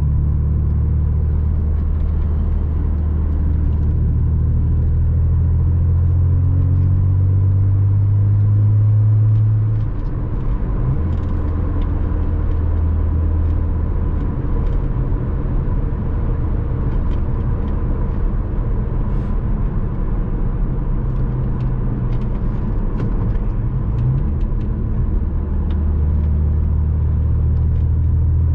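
Porsche Boxster 986's flat-six engine pulling the car along at a steady drone. Its note builds slightly, drops back sharply about ten seconds in, holds steady, then builds again near the end.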